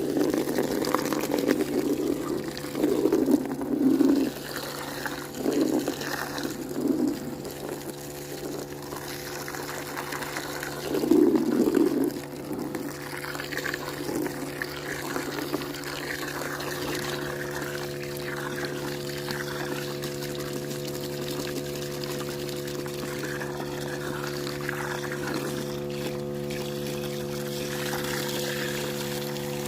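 Water pouring and splashing steadily over a constant machine hum, with louder irregular splashes in the first dozen seconds.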